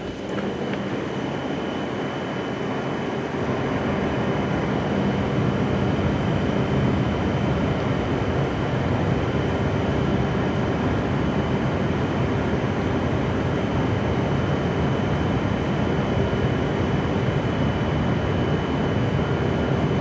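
E7-series Shinkansen train standing at the platform, its equipment giving a steady hum with a thin high whine; it grows a little louder about four seconds in.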